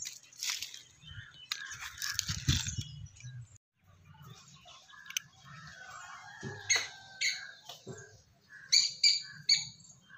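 A few seconds of scuffing noise from hands working wet soil, then a bird chirping in short calls, a pair around the middle and a louder run of three near the end.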